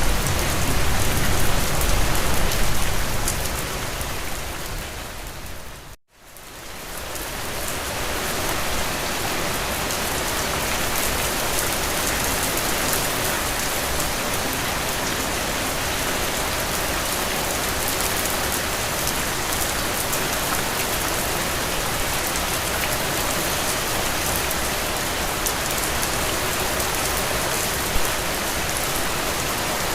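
Steady rain falling, a dense even hiss. About six seconds in it fades out to a moment of silence and then fades back in, as at a join between two recordings.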